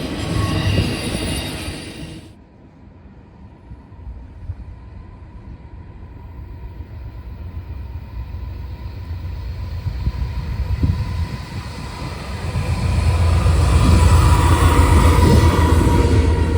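Freight train rumble with a faint steady high whine, growing steadily louder as the train approaches and loudest from about thirteen seconds in. A louder rumble at the very start cuts off abruptly about two seconds in.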